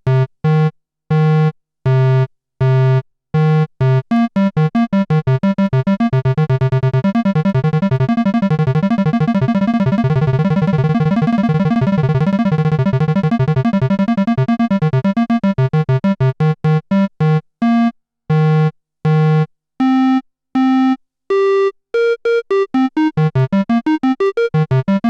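Moog Grandmother monophonic analog synthesizer running its arpeggiator: a fast stream of bright, buzzy bass-register notes stepping up and down in pitch. The notes are short with silent gaps between them at first. Through the middle they run together into a continuous legato stream, then turn short and detached again.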